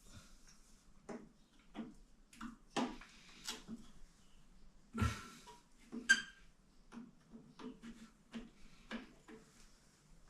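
Irregular light clicks and knocks of hands working at a toilet seat and its fittings to take the seat off, the loudest about five and six seconds in.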